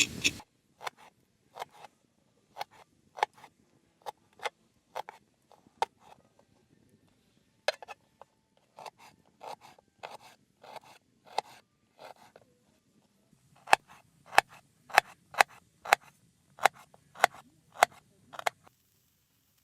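Dandelion roots being cut into small pieces with a blade: a series of sharp, crisp cuts, irregular at first, then quicker at about two a second in the second half.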